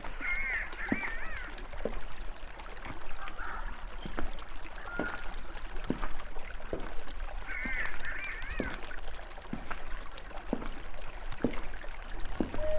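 Nature ambience of trickling, dripping water with many small sharp clicks, and two short bursts of wavering bird calls, one near the start and one about eight seconds in.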